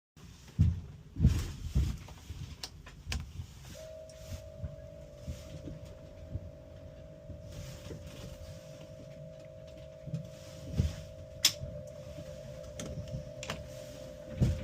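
Scattered clicks and knocks, like switches and fittings being handled, over a steady electrical tone that comes on about four seconds in; a second, slightly different tone joins it near the end.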